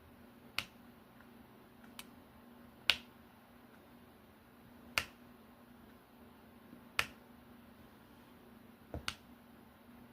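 Diamond-painting drill pen tapping resin drills down onto the canvas: sharp single clicks every one to two seconds, with a quick double tap near the end.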